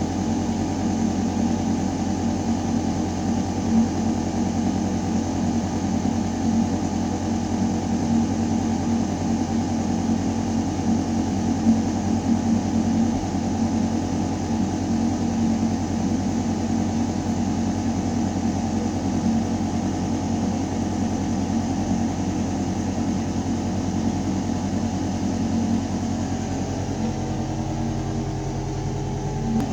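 Building ventilation system running: a steady, deep mechanical hum with several held tones over a rush of air through metal ductwork. About 26 seconds in, the low part of the hum shifts a little and grows slightly stronger.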